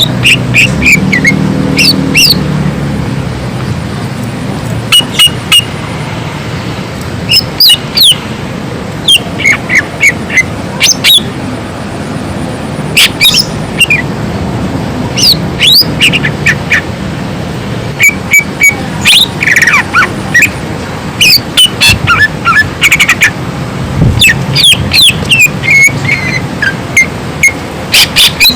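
Greater green leafbird (cucak ijo) singing loudly: quick bursts of sharp, whistled notes that swoop steeply up and down, repeated in phrases with short pauses between them.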